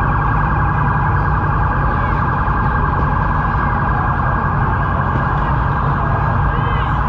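Dodge Hellcat's supercharged V8 running at a crawl in traffic: a steady low rumble with a constant high whine over it.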